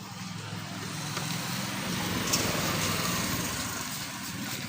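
A motor engine running steadily, with a wider rushing noise that swells and then fades about halfway through.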